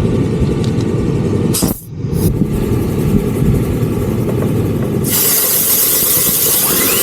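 Low rumbling road and engine noise of a vehicle being driven, briefly dipping about two seconds in. About five seconds in it cuts abruptly to a steady, loud rushing hiss.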